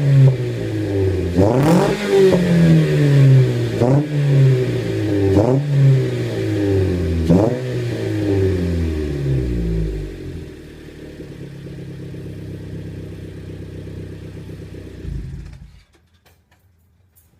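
2011 Mitsubishi Lancer DE's 2.0-litre four-cylinder engine, its rear muffler replaced by a straight pipe and tip, revved in about five quick blips, each falling back slowly, then settling to a steady idle before being switched off near the end.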